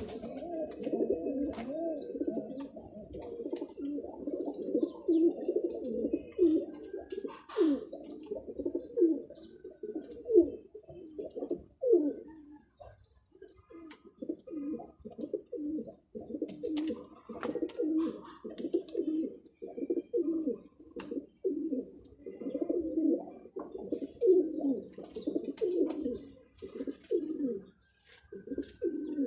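Domestic pigeons cooing, several at once in overlapping, wavering coos. There is a short pause about halfway through, and a few sharp clicks are scattered among the calls.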